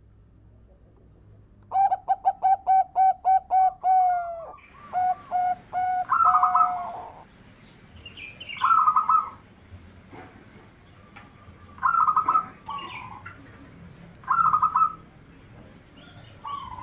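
Zebra doves (perkutut) singing: a quick run of about nine evenly spaced cooing notes, then more notes and a string of shorter rolling coo phrases every couple of seconds.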